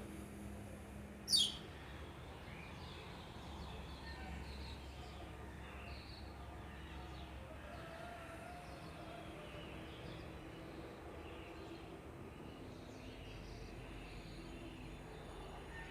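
Birds chirping faintly in the background, with one brief, sharp high chirp about a second and a half in that stands out as the loudest sound.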